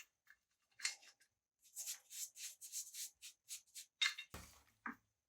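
Short scraping strokes of a hand tool on a part, about three a second for a couple of seconds, then a stronger stroke and a dull knock near the end.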